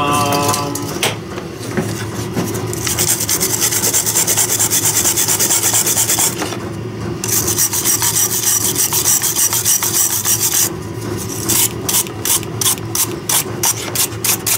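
Rapid hand scraping strokes, rasping like filing, in two long runs with a short break between them, then slower separate strokes about three a second near the end. Under it there is a steady low hum.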